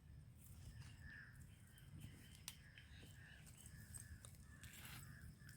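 Faint crows cawing in the background, a run of short calls repeating about twice a second.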